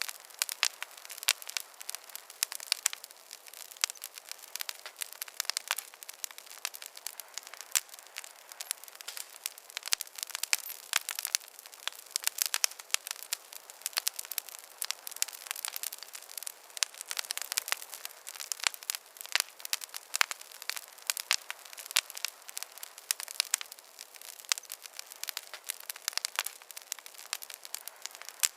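Wood fire crackling and popping in a fireplace: a continuous stream of sharp, irregular snaps over a soft hiss.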